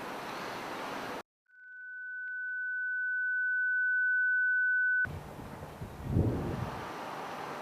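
A rushing noise cuts out to silence. A single steady pure tone, a sine tone, then swells louder for about three and a half seconds and cuts off abruptly. The rushing noise returns with a brief low rumble.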